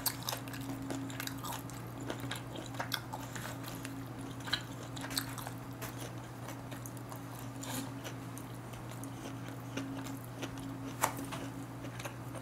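A person chewing food close to the microphone, with scattered small clicks and mouth noises, over a steady low electrical hum.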